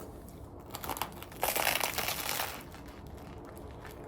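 Paper wrapper around a banh mi crinkling as it is handled, with a few light rustles and then a louder crackle lasting about a second in the middle.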